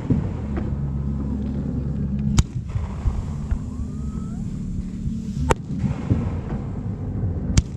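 Fireworks going off: three sharp bangs, a few seconds apart, over a steady low rumble.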